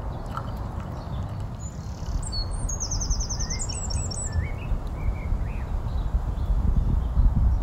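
Small birds singing: a fast trill of high notes about two and a half seconds in, then a few lower chirps, over a steady low rumble.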